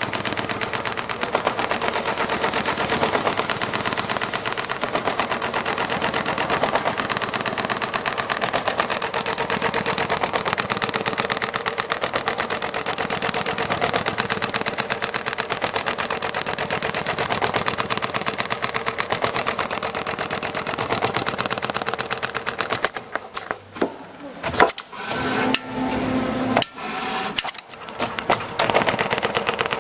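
Richpeace CNC sewing machine stitching leather, its needle running at a fast, even rate. About two-thirds of the way in it stops and restarts several times in short bursts, then runs steadily again near the end.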